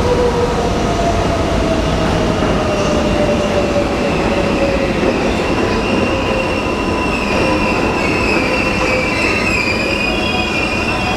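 New York City subway train running on the rails: a loud, steady rumble with high-pitched wheel squeal that grows stronger in the second half, over a lower tone that slowly falls in pitch.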